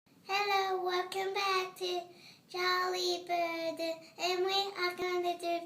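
A young child singing a short tune in three phrases, holding each note steady.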